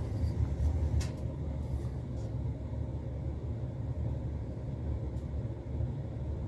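Steady low rumble with a single sharp click about a second in.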